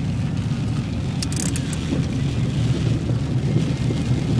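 Car driving, heard from inside the cabin: steady low road and engine rumble, with a brief high hiss about a second in.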